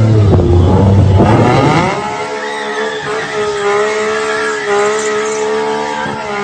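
Car sound on the road: a loud, low rumble, then a pitched sound that rises about a second and a half in and holds steady for several seconds.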